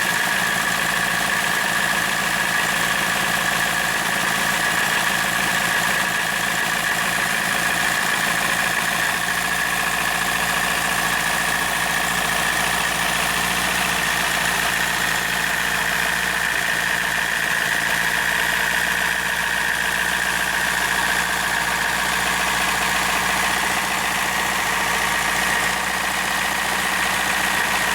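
Hand-built model engine running steadily, a continuous mechanical hum with a high whine held at a near-constant pitch.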